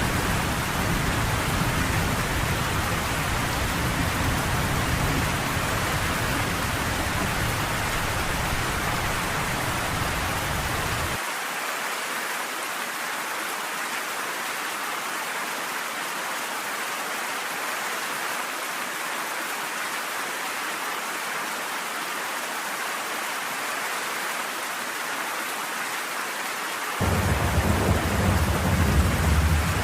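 Steady heavy rain with low rolling thunder rumbling underneath; the rumble cuts off suddenly about a third of the way in and comes back near the end while the rain goes on.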